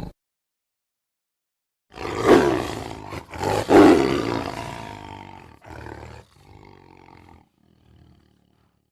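Tiger roaring: after about two seconds of silence, a roar with two loud peaks about a second and a half apart, then trailing off in a few weaker calls that die away near the end.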